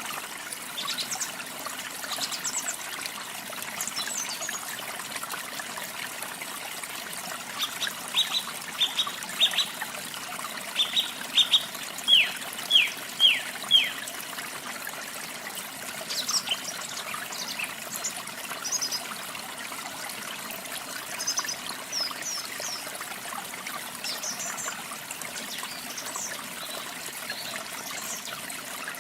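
Steady rushing and trickling of falling water, with birds singing over it. Near the middle one bird gives a series of loud, quick downward-slurred whistles, about two a second, and high thin chirps come and go after it.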